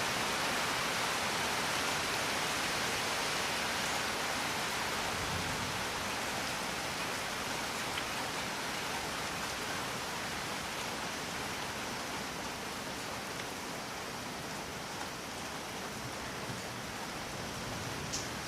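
Steady rain falling, an even hiss with a few faint sharp drop ticks, easing slightly in level over the latter half.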